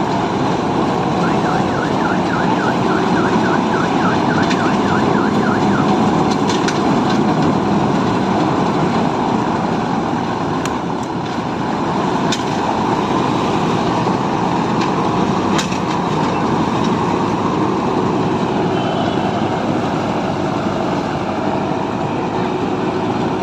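Tractor-mounted combine harvester running steadily under load, with a fast warbling siren-like tone, about three warbles a second, for a few seconds near the start.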